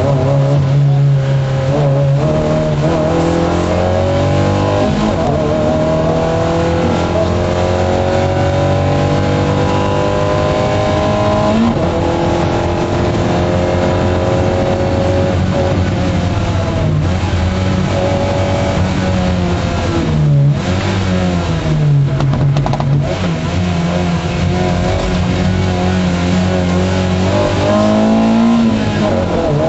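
MG F rally car's engine heard from inside the cabin, revving hard at racing pace: the pitch climbs through each gear and drops back at every shift, with a sharp drop and climb again about two-thirds in.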